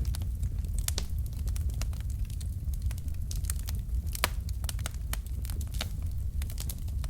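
Wood fire crackling: burning logs giving off irregular sharp snaps and pops, one louder pop about four seconds in, over a steady low rumble of the flames.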